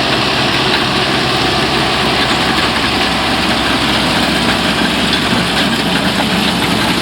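Tractor engine running steadily while pulling an onion lifter, with the lifter's elevator working as it lifts onions.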